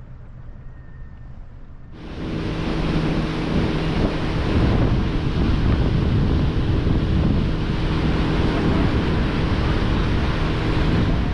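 A boat engine hums low at first, then about two seconds in it opens up and runs steadily at speed. Loud rushing water and wind noise on the microphone ride over the engine from then on.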